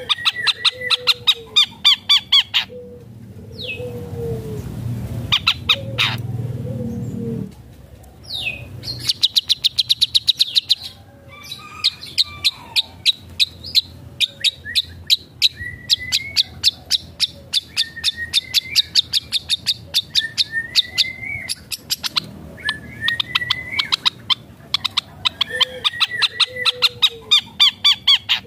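Long-tailed shrike (cendet) singing hard: rapid-fire chattering runs of sharp repeated notes broken by short rising whistles and lower phrases, with other birds' songs mimicked in as fill phrases. About four seconds in, a low rumble sounds beneath it for a few seconds.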